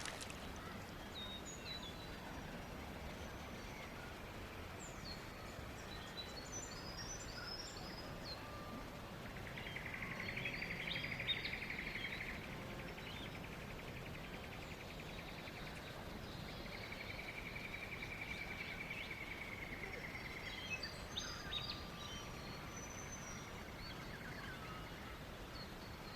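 Outdoor birdsong: scattered short high chirps over a steady background hiss, with two long, rapid, even trills, the first about a third of the way in and the second a little past halfway.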